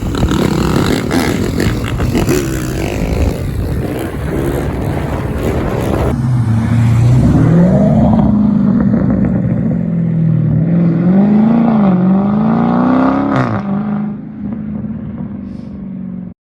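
Loud car engine and exhaust: a rough rumble at first, then revving with the pitch climbing and falling several times. It cuts off suddenly near the end.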